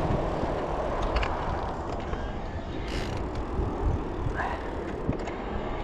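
Steady low rumble of wind on the microphone and tyre noise from a Riese & Muller Roadster e-bike being ridden along the road, with a couple of brief hissing bursts.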